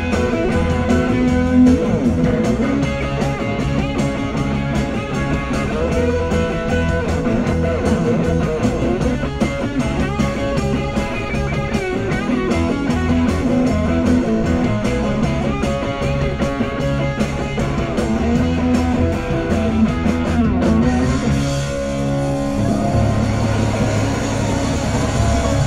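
Live rock band playing an instrumental passage led by electric guitar, with bass and a steady drum beat; the arrangement thins and shifts about 21 seconds in.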